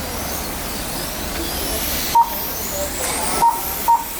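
RC motorcycles whining around the track, their pitch rising and falling, under a steady hiss of background noise. Short, sharp beeps from the lap-timing system sound about two seconds in and twice near the end.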